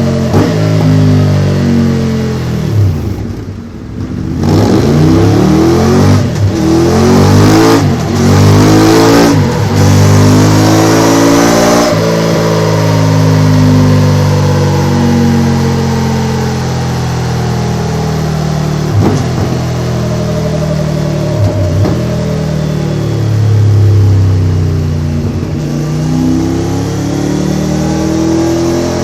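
Triumph Tiger 900 GT Pro's inline-three engine revving through a Delkevic oval carbon-fibre exhaust silencer on a dyno. The revs drop briefly a few seconds in, climb in several short rises broken by quick drops, then make one long, slow, steady climb before falling away near the end.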